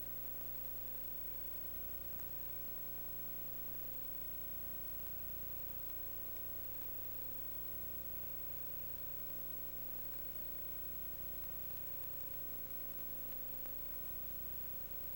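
Steady hiss and electrical hum with a faint steady tone running through it; nothing else happens.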